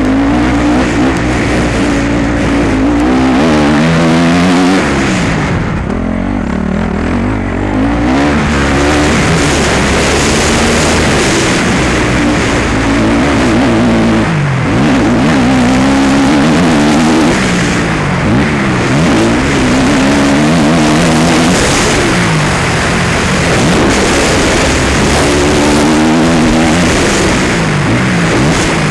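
Motocross bike engine run hard around a dirt track, its note rising and falling over and over as the throttle opens and shuts.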